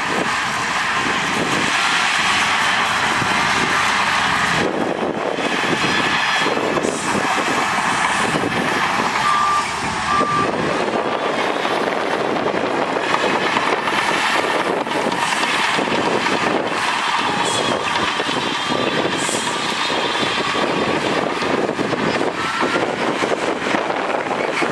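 Heavy earthmoving machines (bulldozer, wheel loader and dump trucks) working sand, their engines running steadily and loudly, with two short beeps about nine to ten seconds in.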